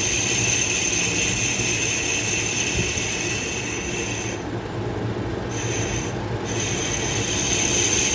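Metal lathe turning a motorcycle brake hub, with a steady high-pitched whine over the machine's hum as the tool cuts. The whine drops out for about a second around the middle and again briefly a little later, while the machine keeps running.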